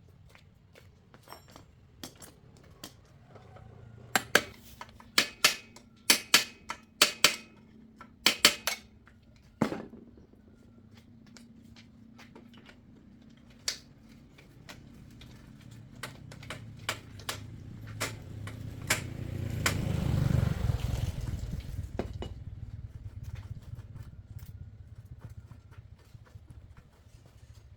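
A quick run of about ten sharp metal knocks and clinks, then scattered lighter clicks. A low rumble swells to its loudest about twenty seconds in and then fades away.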